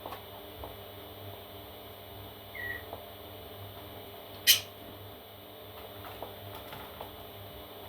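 Parrot chicks: a brief soft chirp, then about halfway one short, sharp, high squeak, over a steady electrical hum.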